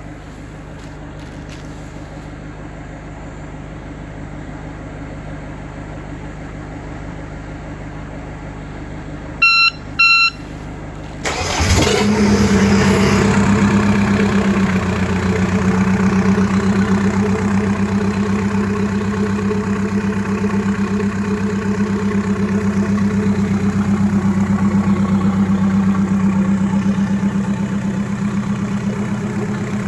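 Volvo Penta D2-55 four-cylinder marine diesel being started. Two short electronic beeps sound when the key is switched on, then the starter cranks briefly. The engine catches about twelve seconds in and settles into a steady idle.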